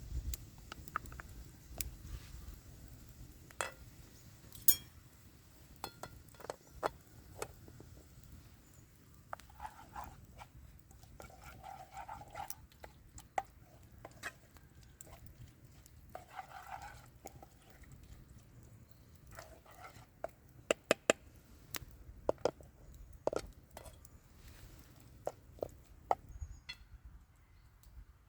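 Scattered light clicks and knocks at irregular intervals, with a few short rasping noises in between.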